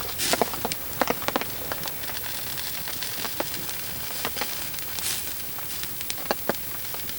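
Campfire crackling, with irregular sharp pops and snaps from the burning wood over a steady hiss.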